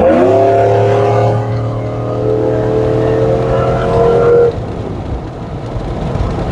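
Chevrolet Silverado pickup's engine and exhaust under hard acceleration: the revs sweep up sharply, hold and climb slowly for about four seconds, then drop off suddenly as the throttle is lifted.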